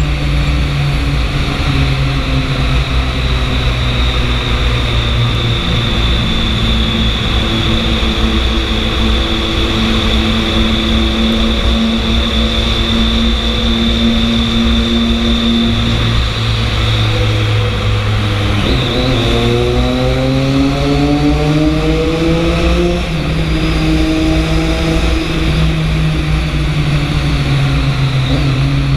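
Triumph 675 motorcycle's three-cylinder engine running at a steady speed over a steady hiss. About two-thirds of the way through, the engine note drops sharply, then climbs for a few seconds as it accelerates again before levelling off.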